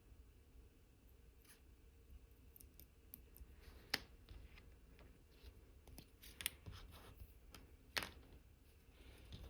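Faint, sharp metal clicks of watchmaker's tweezers and small tools on the parts of an Omega Cal.1109 movement being reassembled. The clicks are scattered, with louder ones about four, six and eight seconds in, over a low steady hum.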